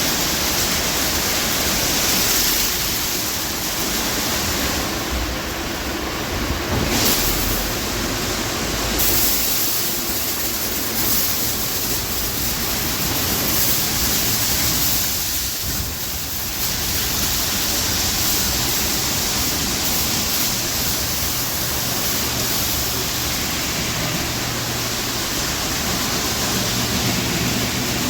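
Automatic car wash running over the car: a steady rush of spraying water, with small rises and dips in level as the machine moves.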